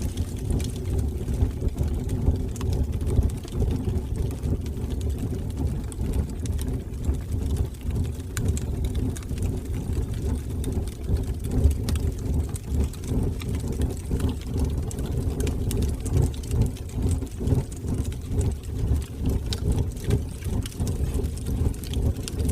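Wood fire burning in a fireplace: a steady low rumble of flames with scattered small crackles.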